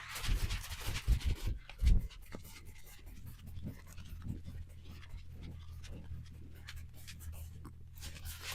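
A beagle moving about close to the microphone: irregular rustling and scratching, busiest in the first couple of seconds, over a steady low hum.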